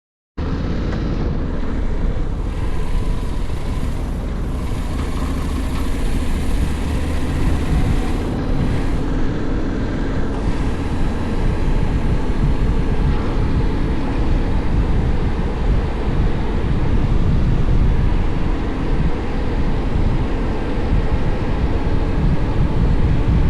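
Honda X-ADV motorcycle riding, its parallel-twin engine a steady low drone under wind buffeting the microphone.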